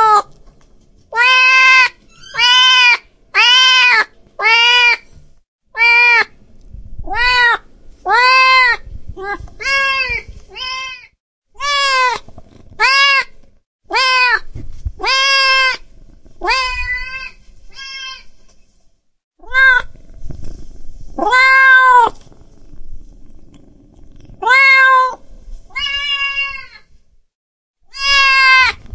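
A cat meowing over and over, about two dozen short meows in a row. Each meow rises and falls in pitch, with a few brief pauses between runs.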